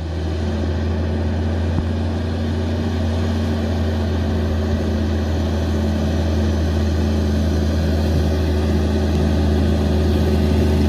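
Volvo FM12 truck's twelve-litre diesel engine idling steadily, with a deep even hum. It grows a little louder in the first second.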